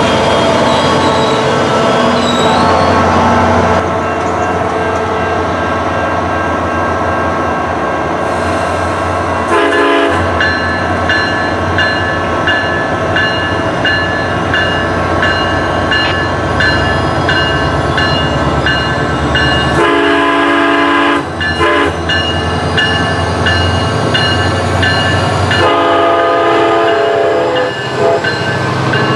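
SunRail commuter train running past, sounding its horn in several blasts, with an evenly repeated ringing from about a third of the way in.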